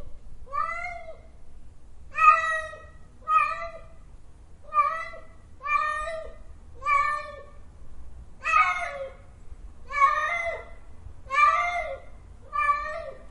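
Domestic cat meowing over and over: about ten short meows, roughly one a second, each rising and then falling in pitch.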